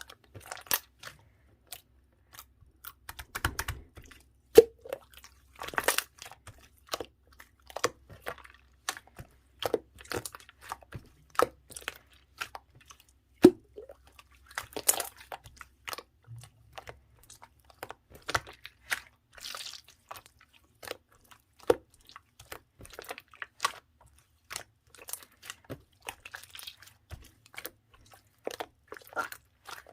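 Clear slime being pressed, poked and folded by hand, giving irregular sharp clicks and pops with small wet squelches.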